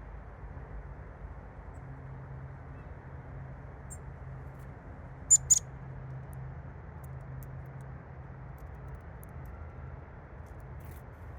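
Two quick, high-pitched chirps from a small songbird taking seed from the hand, about halfway through, over a steady low hum.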